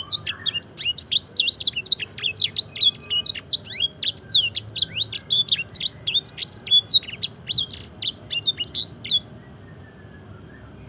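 Domestic canary singing a fast run of sharp, sweeping high notes, a song filled with phrases copied from the black-throated canary; the song stops about nine seconds in.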